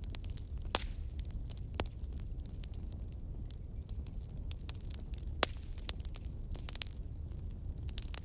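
Wood fire crackling: irregular sharp pops and snaps, a few louder ones about a second in, about two seconds in and about five and a half seconds in, over a steady low rumble.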